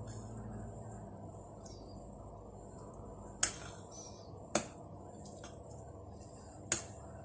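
Three sharp kitchenware clicks, like a utensil knocking against a dish, spaced a second or two apart, over a faint steady background.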